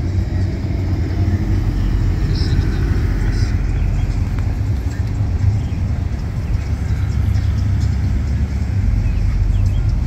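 Engines and exhausts of cars driving slowly past one after another, a steady low rumble with no sharp revving.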